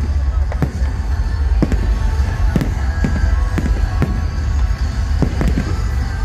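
Fireworks display: aerial shells bursting, with sharp reports about once a second over a continuous low rumble of explosions.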